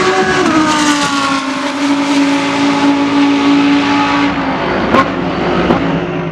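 GT3 race car engine at speed: its note drops in the first second, holds steady, then fades away about four seconds in. A sharp click comes about five seconds in.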